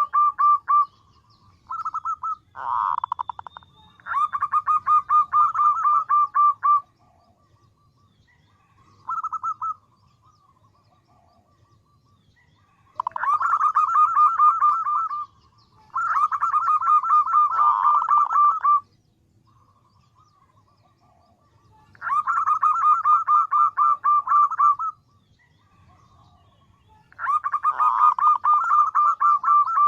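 Female zebra dove (perkutut) calling, the call a hen gives to draw males: repeated bouts of fast, evenly spaced notes, each bout lasting two to three seconds, with pauses of a few seconds between them.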